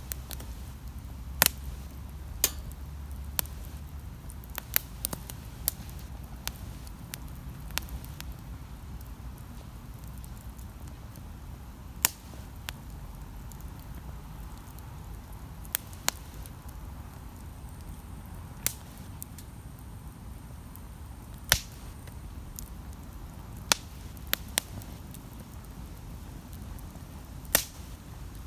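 Wood campfire crackling: sharp, irregular pops and snaps every few seconds over a low, steady rumble of the fire.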